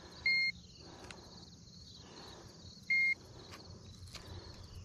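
Digital fish scale beeping twice, two short high beeps about two and a half seconds apart, as it weighs a bass. Faint insect chirring underneath.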